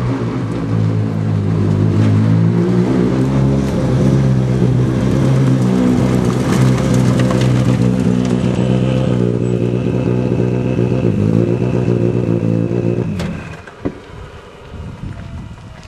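Škoda Fabia rally car's engine running loud at a steady, even pitch, then switched off about thirteen seconds in.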